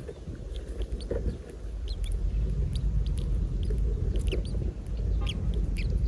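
Small birds chirping: many short, high cheeps scattered throughout, over a steady low rumble.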